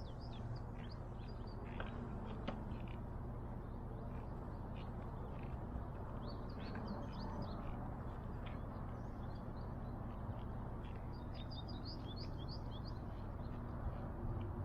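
Small birds chirping, many short calls scattered throughout, over a steady low rumble of outdoor background noise.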